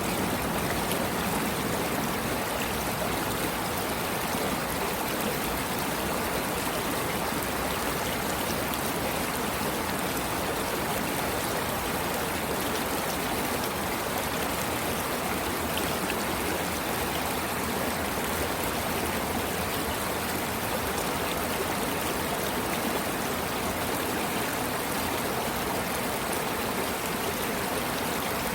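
Water of a stream flowing steadily, an even rush that does not change.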